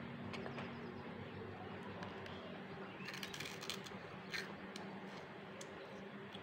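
Faint crunching and small clicks of a child breaking and chewing a crisp fried snack, with a short cluster about three seconds in and another click a second later, over a low steady hum.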